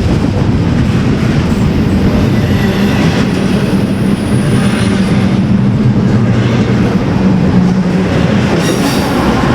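Train cars rolling past close by: a steady loud rumble of steel wheels on rail, with faint high-pitched wheel squeal about midway and again near the end.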